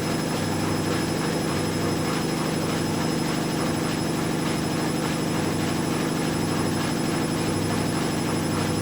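Two washing machines, a Hoover Dynamic Next DXA610IW3 and a Whirlpool AWM1850, running their spin cycles together: a steady motor hum and drum whir that holds constant throughout.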